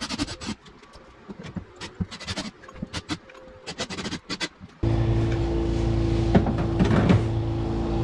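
Scattered light clicks and knocks of small hardware and tools being handled, then about five seconds in a loud, steady small-engine drone of lawn-care power equipment cuts in, with a couple of louder rasping surges.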